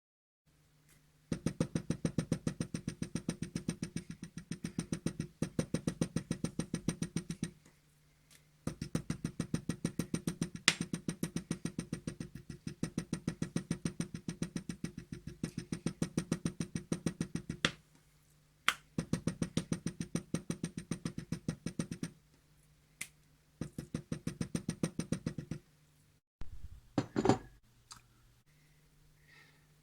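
Rapid, even knocking, about seven strokes a second, in runs of several seconds with short pauses between, over a steady low hum; a few single sharper clicks stand out.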